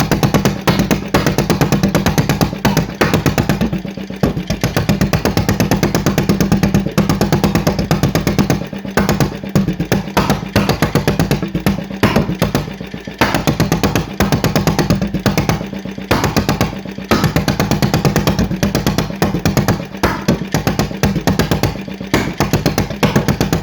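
Deutz MA 608 stationary engine running fast on an open exhaust, a rapid, even train of sharp firing pulses. The beat briefly falters or dips every second or two.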